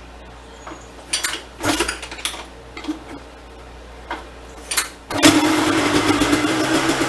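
Honda CR250 two-stroke single being kick-started: several short bursts of kicking, then it catches about five seconds in and runs steadily.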